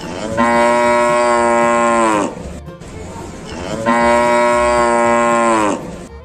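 Cow mooing twice: two long calls of about two seconds each, the pitch dropping away at the end of each.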